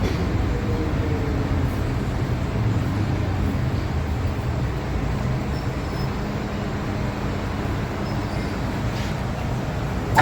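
Interior of an MTR M-Train electric multiple unit running through a tunnel: a steady low rumble from the wheels and running gear, easing slightly as the train slows into a station.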